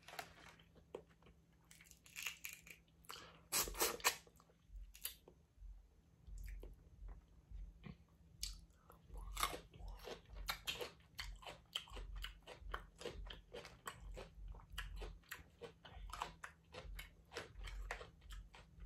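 A person eating a crawfish boil: a few crunches and clicks in the first seconds, then steady chewing, two or three chews a second.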